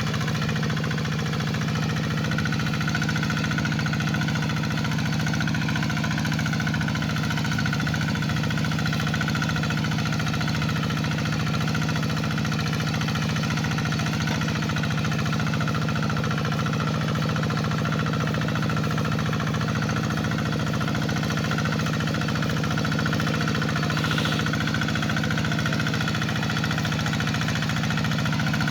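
Two-wheel hand tractor's engine running steadily while ploughing a paddy field, a constant even drone with no change in speed.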